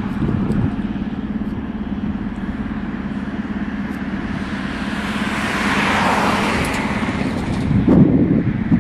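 Steady diesel engine drone from a GE ES44AC locomotive, with a rushing noise that swells to a peak about six seconds in and then eases. Louder low rumbles come near the end.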